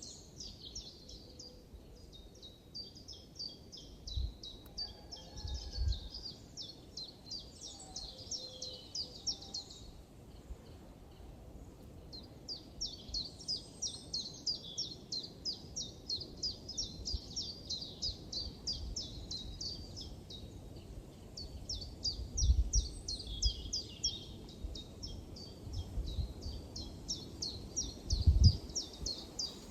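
Birds singing in a forest: long runs of fast, repeated high chirps, breaking off briefly about ten seconds in and then resuming. A few low thumps come through, the loudest one near the end.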